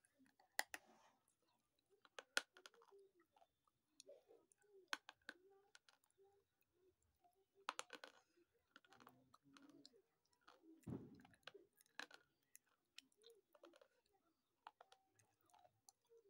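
A slate pencil being chewed close to the microphone: sharp crunches every few seconds, with soft wet chewing sounds between them.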